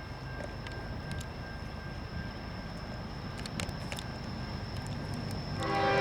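Approaching freight train rumbling, growing steadily louder, then the diesel locomotive's air horn sounds a chord near the end.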